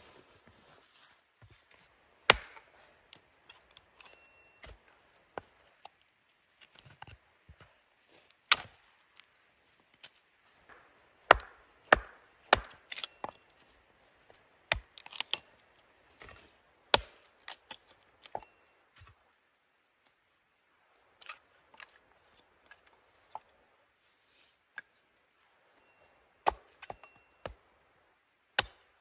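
A series of sharp, irregular strikes and cracks, single or in quick clusters with pauses between, busiest in the middle; typical of hand-tool work chopping or cutting.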